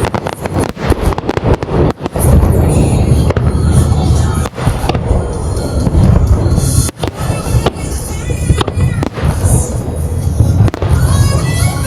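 Rapid barrage of firework shells bursting, deep booms with crackling in between, while music plays over loudspeakers.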